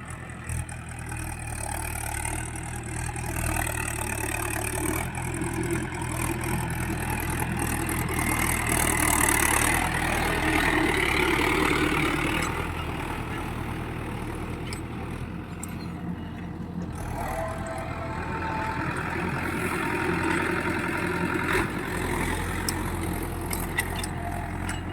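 Swaraj tractor's diesel engine running steadily while ploughing a field, louder for a few seconds in the middle.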